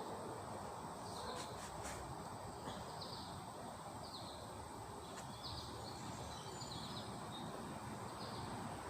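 Steady outdoor background hiss with small birds chirping: short high calls repeating every second or so. A few faint clicks about a second and a half in.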